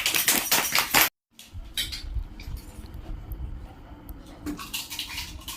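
Crunching and clicking of fuchka (pani puri) being eaten, with light plate clinks. The sound drops out completely for a moment about a second in, then the clicks go on more quietly.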